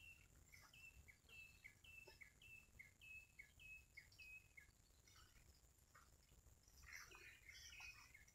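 Faint birdsong: a short high note repeated about twice a second, giving way to busier overlapping chirps near the end.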